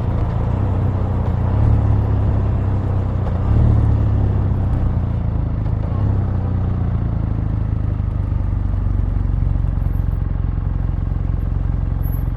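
Kawasaki W800's air-cooled parallel-twin engine running through its exhaust, a steady low note that swells briefly twice in the first few seconds, then holds even.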